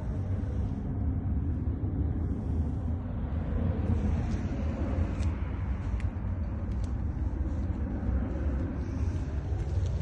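Scania S500 truck's 13-litre straight-six diesel idling, a steady low rumble with a few faint clicks in the middle.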